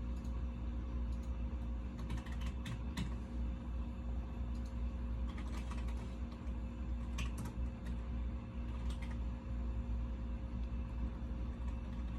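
Computer keyboard typing in short, irregular runs of keystrokes, over a steady low hum.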